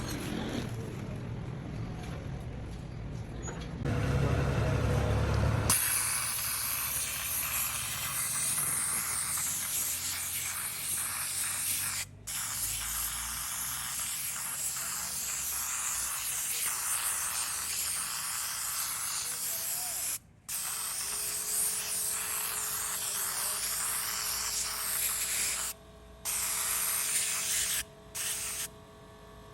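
Aerosol carburettor and jet cleaner spraying in long hissing bursts, with a couple of brief breaks, then stopping and starting several times near the end. A few seconds of low rumbling and handling noise come before the spraying begins.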